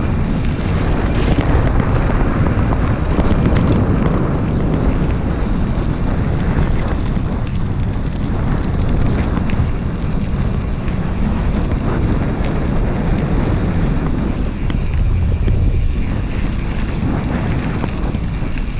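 Wind buffeting the microphone of a camera riding along on a moving bicycle: a steady, loud low rumble, with a few faint ticks and rattles near the start.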